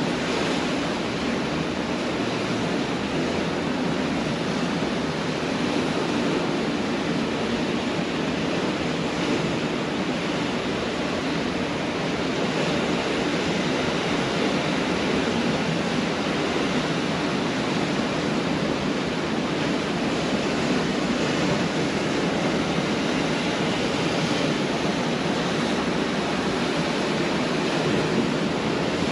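Pacific Ocean surf washing onto a beach: a steady, continuous wash of breaking waves with no distinct individual crashes.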